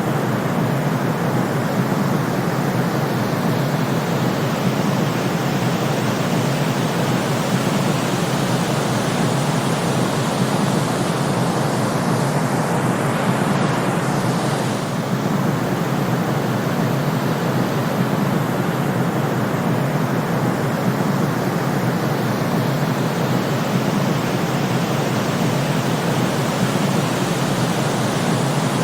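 Steady white noise: a constant, even rushing hiss weighted toward the low and middle range, with a slight momentary dip in level about fifteen seconds in.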